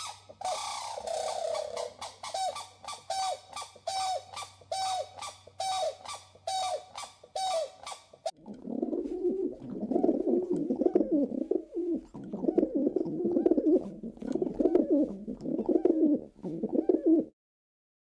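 A grey crowned crane gives a run of short, evenly repeated calls, about one and a half a second. About eight seconds in it gives way to a pigeon cooing over and over, lower and rolling, which stops shortly before the end.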